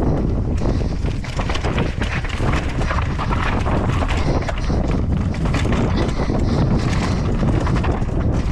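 Strong wind buffeting the microphone, mixed with the clatter and rattle of a mountain bike running over rough, rocky ground.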